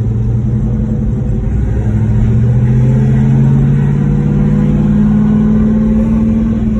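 1968 Pontiac GTO's V8 engine running under way, its note rising slowly as the car gently gathers speed, over a low rumble of road noise.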